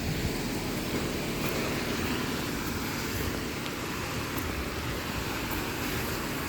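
Steady rushing noise of traffic on a wet road in the rain, with a few faint ticks.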